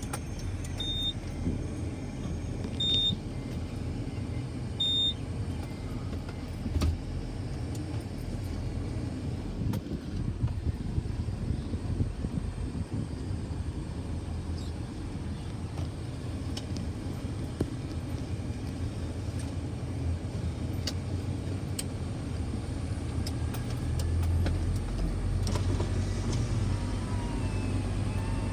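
Steady low rumble of a truck heard from inside the cab, growing a little louder near the end. Early on there are three short high beeps about two seconds apart.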